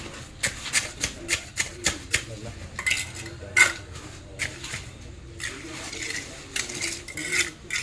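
Hand tools tapping and scraping on a fresh cement patch, a quick irregular run of sharp clicks, as the wet cement is packed down and smoothed.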